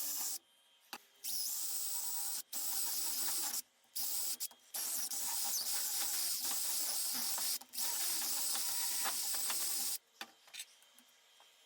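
Abrasive tool working on an antique hammer's steel head, a hissing, rasping noise that starts and stops abruptly in runs of one to three seconds with short gaps, as the mushroomed lip is taken down.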